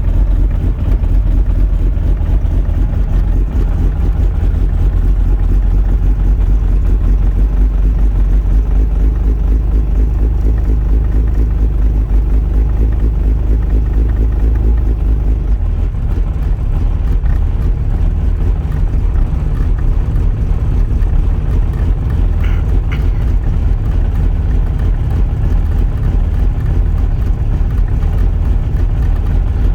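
Mini car engine idling steadily just after a cold start, with an even, unchanging running note.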